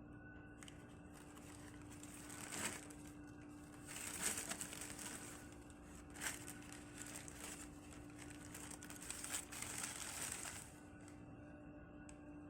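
Shoe-box wrapping being handled, crinkling and rustling in irregular bursts with a few sharper crackles, over a faint steady hum. It stops about two seconds before the end.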